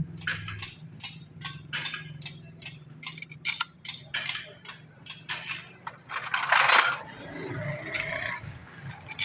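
Metal hand tools and engine parts clinking and tapping in a quick irregular series, with one louder, hissing rush lasting under a second about six seconds in.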